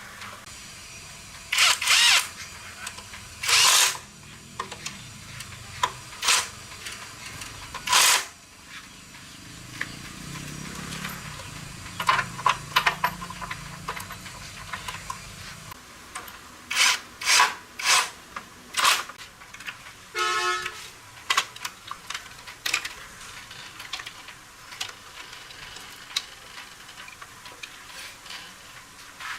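Motorbike repair work: a string of short, sharp bursts of hissing and clattering, with a low steady hum in the middle stretch and a brief buzzing horn beep about twenty seconds in.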